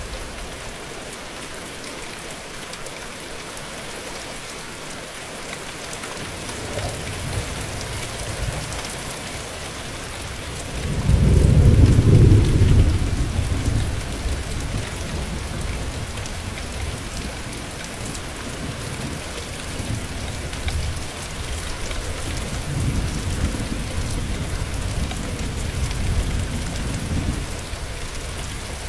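Steady rain falling, with a long low roll of thunder starting about eleven seconds in, loudest for a couple of seconds and then dying away. Fainter rumbles of thunder come again near the end.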